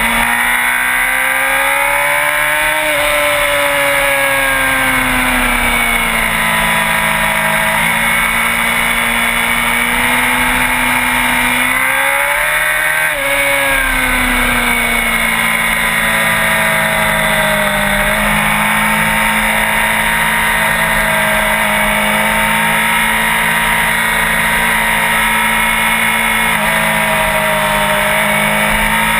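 Sport motorcycle engine running under way, its pitch climbing and dropping back twice, about two seconds in and again about thirteen seconds in, then holding fairly steady.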